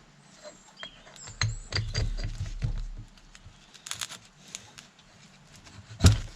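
Workbench handling sounds while a tractor hydraulic pump is reassembled: a cluster of clicks and knocks from metal parts and tools starting about a second and a half in, some lighter clicks later, then one sharp knock near the end.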